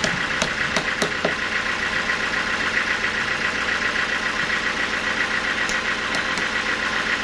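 Sawmill machinery running with a steady mechanical drone, with a few sharp clicks or knocks in the first second and again around six seconds in.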